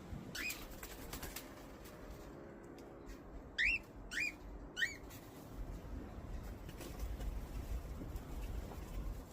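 Pet bird chirping: four short rising calls, one near the start and three in quick succession around the middle, over light scattered clicks.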